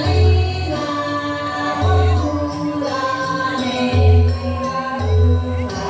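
Balinese janger music: a group of voices singing together over deep drum beats that fall about every one to two seconds.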